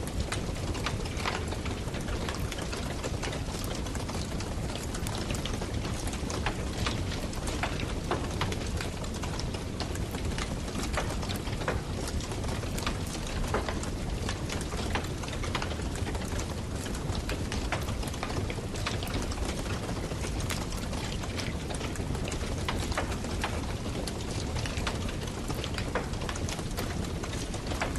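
Campfire burning with a steady low rush, its wood crackling and popping in frequent irregular snaps.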